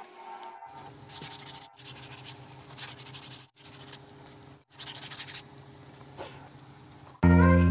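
Sandpaper rubbing on hard styrofoam in a series of back-and-forth strokes, broken by a few short pauses.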